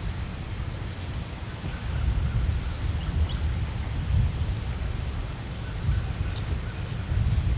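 Wind rumbling on the microphone in the woods, with a small songbird chirping short, high, repeated notes over it.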